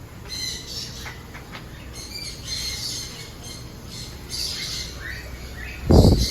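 Birds squawking and calling, short calls repeating and overlapping, with a loud low thump near the end.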